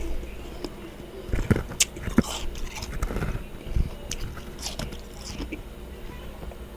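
Freezer frost being bitten and crunched in the mouth: a handful of sharp, irregular crunches, the loudest about a second and a half to two seconds in, with a steady low hum in the background.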